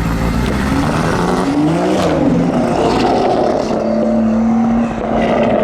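A modified car's engine running rough and misfiring like mad, with a short rev that rises and falls about two seconds in, then a steadier note. The misfire is taken as the sign that the car has fully broken down.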